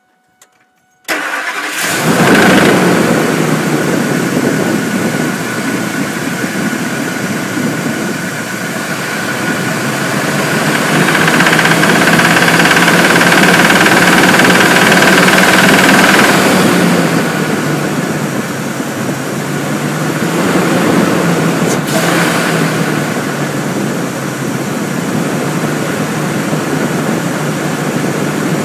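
Ford F-350's 6.8-litre V10 engine cranking and catching about a second in, then running with a knock. It is revved up for several seconds around the middle and briefly again later. The owner says the knock sounds like a rod bearing going out.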